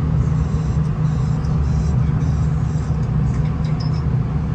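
V/Line VLocity diesel railcar under way, heard from inside the carriage: a steady low drone of the underfloor diesel engine and wheels on the track, with faint light rattles.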